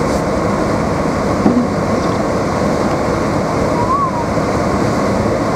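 Steady rushing noise inside a moving car's cabin: road and tyre noise with the heater fan running, and one brief knock about a second and a half in.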